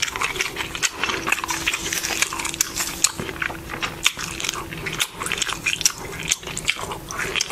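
Close-miked wet chewing of a mouthful of burrito, a dense run of small mouth clicks and smacks.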